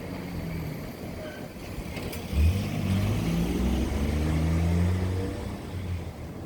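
A motor vehicle's engine accelerating past, rising in pitch, coming in suddenly about a third of the way through and fading after about three seconds, over the steady hum of a packaged air conditioner's outdoor unit.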